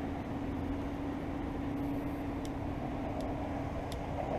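Steady low rumble with a constant hum, the kind of noise a motor vehicle makes. The hum fades out about four seconds in.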